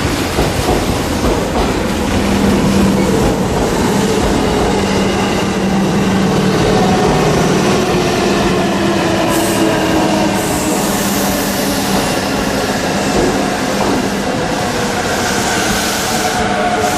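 Electric commuter train pulling into the platform. Its steady running hum slowly falls in pitch as it slows, and two short hisses come in the second half.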